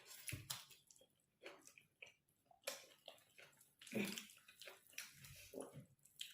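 Close-up eating sounds: soft, wet chewing and lip smacks of cooked food, with irregular small clicks and a louder cluster of smacks about four seconds in.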